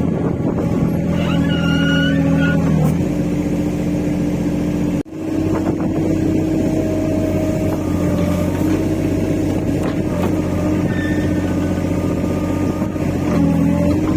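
Rippa R15 mini excavator running, its engine steady under load as the boom is worked. Brief high-pitched creaks from the boom come through twice, about two seconds in and again near eleven seconds. There is a short break about five seconds in.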